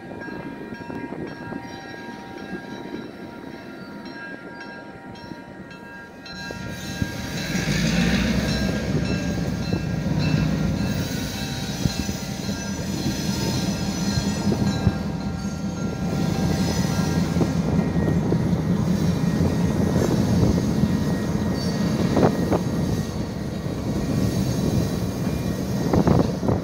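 Two F-unit diesel locomotives and boxcars rolling through a level crossing. The crossing signal's steady ringing is heard at first. About six seconds in, the diesels' low rumble swells loud as they pass, then the cars' wheels rumble on, with a few sharp clanks near the end.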